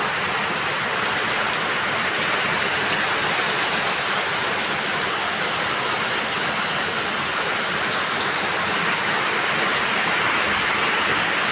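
Rain falling steadily, an even hiss of drops that holds at the same level throughout.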